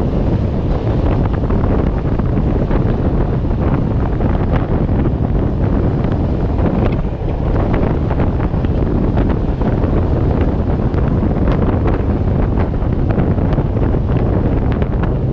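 Wind buffeting a microphone held out of the window of a moving passenger train, over the steady rumble of the carriage running along the track, with scattered sharp clicks.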